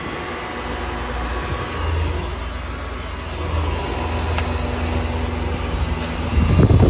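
Ice machine's refrigeration unit running: a steady hum from the condenser fan motor and compressor, with a louder bump near the end.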